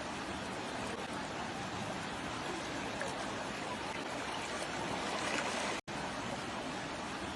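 Floodwater rushing in a steady, even roar of flowing water. It cuts out completely for an instant nearly six seconds in, then carries on.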